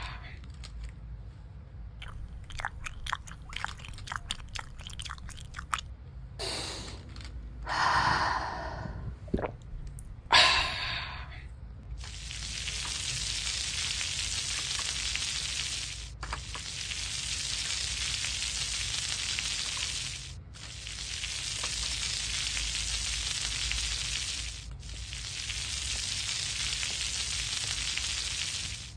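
Small plastic toy-kitchen pieces being handled with fine crackles and rustles, then a steady hiss four times in a row, each lasting about four seconds and cutting off sharply.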